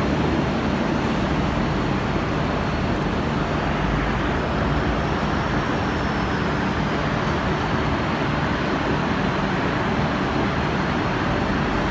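Steady, even rumble and hiss of vehicle noise with no distinct knocks or voices, and a faint high tone that drifts up and back down in the middle.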